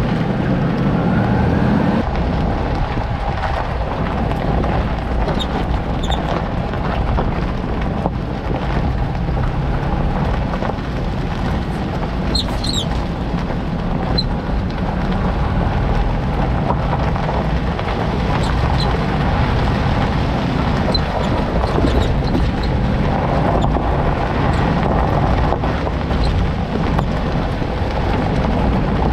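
Toyota Land Cruiser Prado 90 on the move: steady engine and road noise, with a few brief high squeaks, the clearest about twelve seconds in, from the rear suspension.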